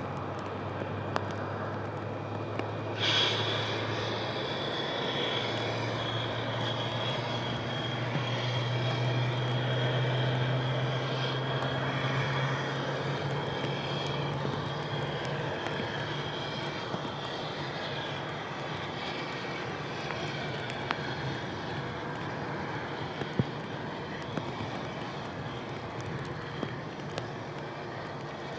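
Jet airliner engines running, a steady low hum that rises slightly in pitch, with a high whine that comes in suddenly about three seconds in and fades out over the next dozen seconds. A few sharp taps of rain hitting the camera's cover.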